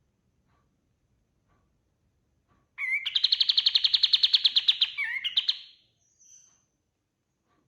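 Kapas tembak, an Indonesian bulbul, singing: after a near-silent start, a loud, very fast trill of evenly repeated notes, about a dozen a second, runs for about three seconds, followed by a short faint note.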